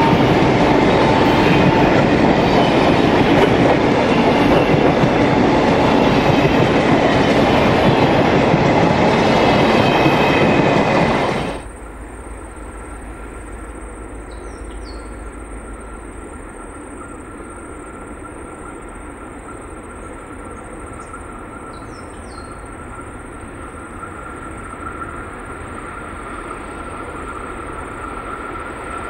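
Loaded grain hopper wagons of a freight train rolling past close by, a loud steady rumble and clatter of steel wheels on rail, which cuts off suddenly about a third of the way in. Then a distant freight train hauled by a G-class EMD diesel-electric locomotive approaches, faint at first and slowly growing louder.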